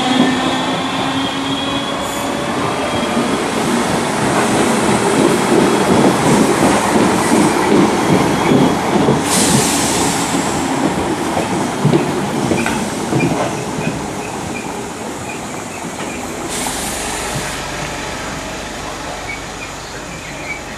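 Multiple-unit passenger train passing, its wheels clattering over the rails, loudest in the first half and slowly fading toward the end.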